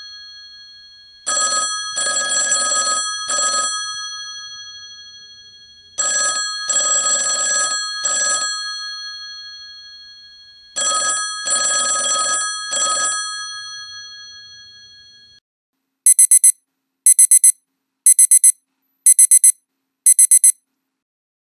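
Classic telephone ringtone: a bell rings three times, about every five seconds, each ring in a short-long-short burst whose tones ring on and fade. After a short silence, a digital alarm gives five short high-pitched beeps, about one a second.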